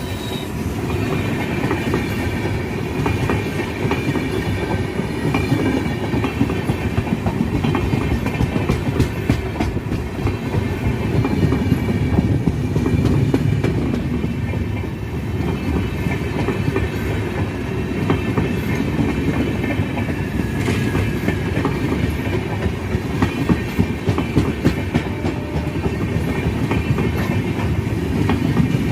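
Indian Railways express passenger train hauled by a WAP-7 electric locomotive rolling past: a steady heavy rumble with a constant patter of wheel clicks over the rail joints, and a faint high whine above it.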